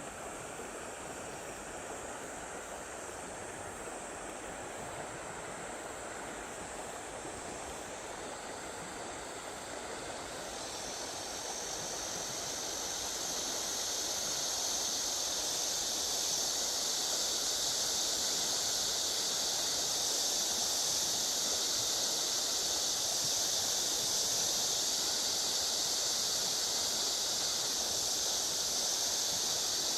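Rushing water of a rain-swollen river, a steady even rush. About ten seconds in a high steady hiss joins and the whole grows louder.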